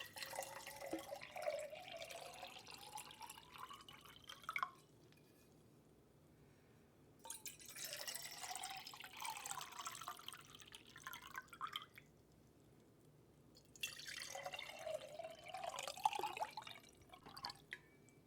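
Water running or pouring into a vessel in three spells of about four to five seconds each, with quiet gaps between. Each spell carries a faint tone that rises in pitch.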